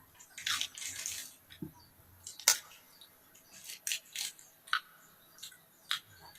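Eating sounds: scattered sharp clicks and taps, such as utensils on a bowl or dish, with a short noisy rustle or slurp about half a second in.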